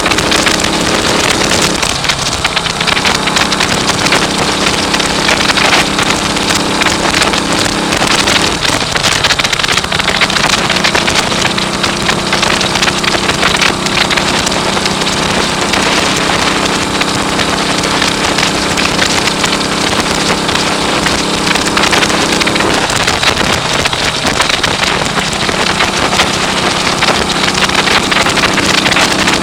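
1939 AJS Model 22 250 cc single-cylinder motorcycle engine running on the road, its note changing pitch a few times, under heavy wind buffeting on the microphone.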